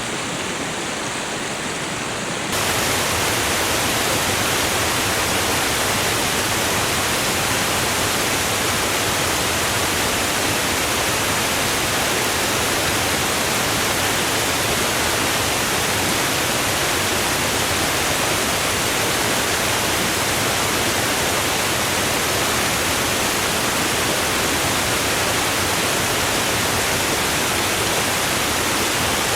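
Waterfall: a steady rush of falling water. About two seconds in it abruptly gets louder and hissier, then holds even.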